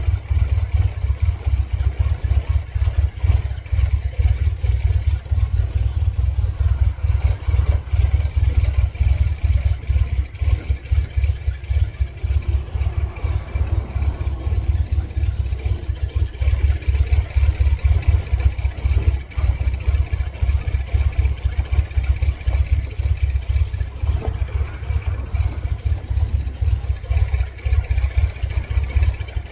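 The 1999 Mercedes-Benz C230 Kompressor's supercharged four-cylinder engine running near idle, a heavy low rumble that pulses unevenly. The engine is one that keeps stalling and flashing its check engine light.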